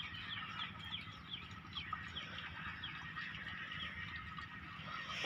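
Birds chirping: a short falling call repeated about two or three times a second over a steady low background rumble, with one short knock near the end.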